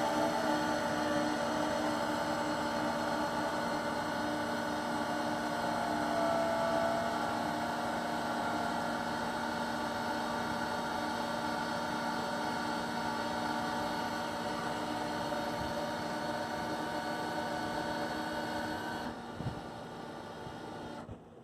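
A steady electric motor hum with a few slight wavers in pitch. It drops in level about two seconds before the end, then cuts off.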